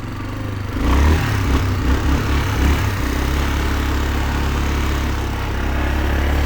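2004 Yamaha Kodiak 450 ATV's single-cylinder four-stroke engine running under load as it is ridden. It picks up about a second in, then holds a steady pull.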